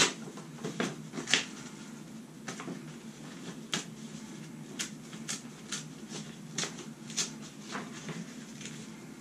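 Tub-and-shower valve remodel cover plate being handled and pressed at its uncut centre cutout, giving irregular light clicks and taps about once a second over a low rustle.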